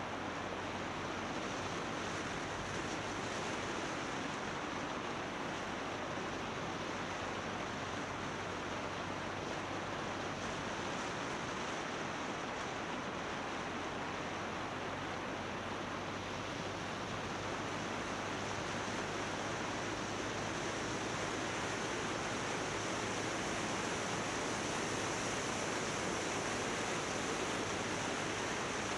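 Steady rush of wind over the action camera's microphone on a motorbike riding downhill, with a faint steady low hum underneath.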